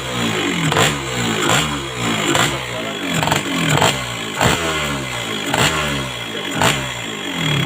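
Motorcycle engine running through a freshly patched exhaust muffler, with repeated throttle blips about once a second, each revving up and falling back. The exhaust is being checked for leaks after the corroded muffler was patched, and is judged not to leak.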